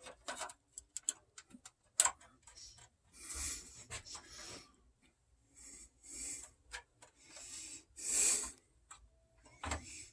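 Plastic and resin model parts being handled: scattered light clicks and several short rubbing scrapes.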